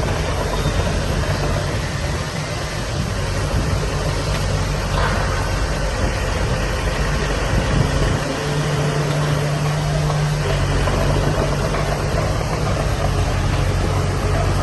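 Diesel engine of heavy earth-moving machinery running steadily, its note shifting about eight seconds in.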